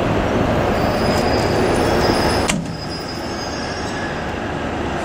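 A train rolling on the rails, with a steady rumble and thin, high wheel squeal. There is a sharp click about halfway through, after which the running noise is somewhat quieter.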